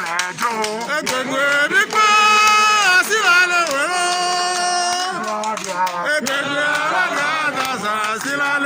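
A man singing, with long held notes that slide up and down in pitch.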